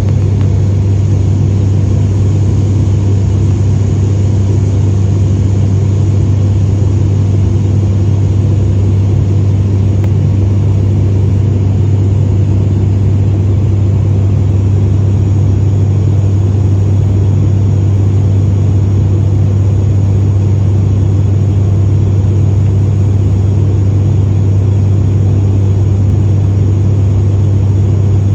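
Aircraft cabin noise in flight: a loud, steady engine drone with a strong low hum and an even rush of air, unchanging throughout.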